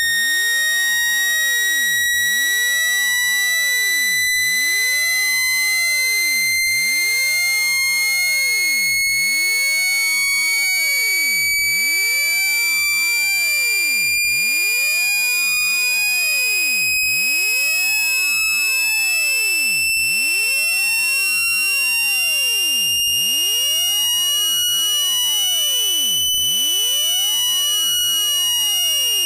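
A synthetic speaker-cleaning tone, played to shake water out of a phone speaker. It is one steady, buzzy, high electronic tone that glides slowly upward in pitch and dips slightly near the end.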